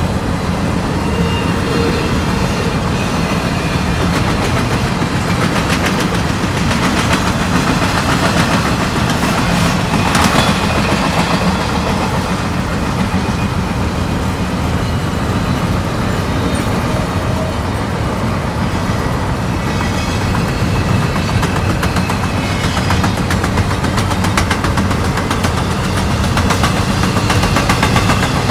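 Freight train rolling by, a steady rumble of the railcars that holds at an even level throughout.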